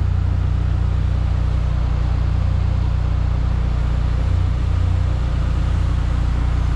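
An engine running at a steady idle: a low, even rumble that doesn't change.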